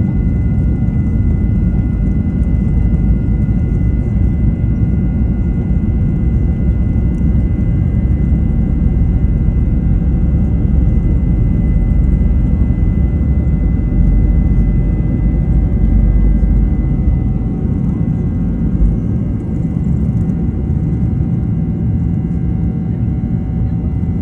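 Boeing 737-900 jet airliner's CFM56-7B turbofan engines at takeoff power: a loud, steady low rumble with a thin, steady high whine, easing slightly in the last few seconds.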